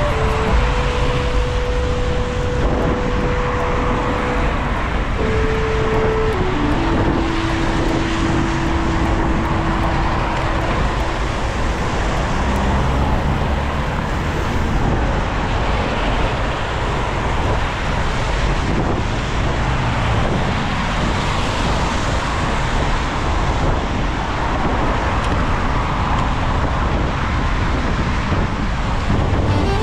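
Steady city traffic and tyre noise on a wet road, heard from a bicycle riding through the rain, with a heavy low rumble. A few long held musical notes step down in pitch during the first third.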